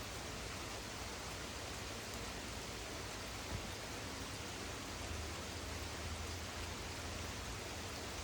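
Steady hiss of rain falling during a thunderstorm, with a single light tick about three and a half seconds in and a low rumble swelling from about five to seven seconds in.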